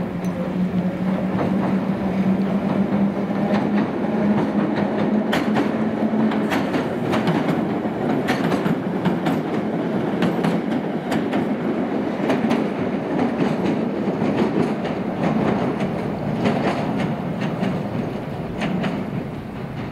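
Island Line Class 483 electric train, former London Underground 1938 tube stock, running along the pier. A steady low hum in the first six seconds gives way to wheels clicking over the rail joints, easing off near the end as the train moves away.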